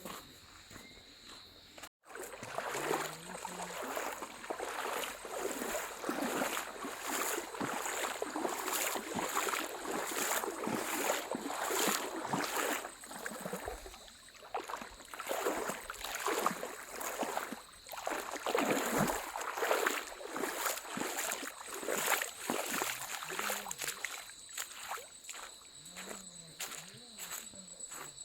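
Rushing, splashing water, uneven and surging, easing off near the end, over a steady high drone of crickets.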